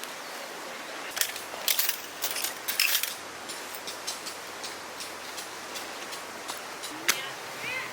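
A cluster of short clicks and light metallic clinks, like small gear being handled, about a second in and again near the end, over a steady outdoor hiss.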